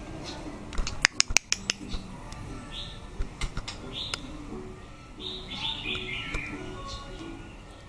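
A caged bird giving short, scattered chirps, with a quick run of sharp clicks about a second in.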